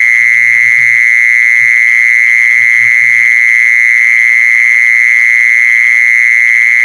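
An insect, the Thai 'jee-son' (แมลงจีซอน), singing a steady, unbroken high-pitched trill, with a few faint low sounds behind it in the first half.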